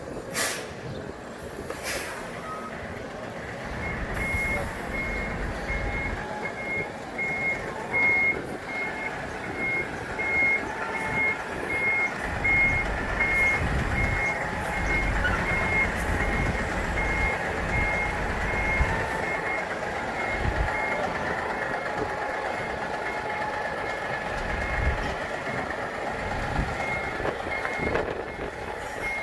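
Vacuum truck backing up: its reversing alarm beeps about one and a half times a second over the truck's engine running. The beeping starts a few seconds in, stops for several seconds near the end, then starts again.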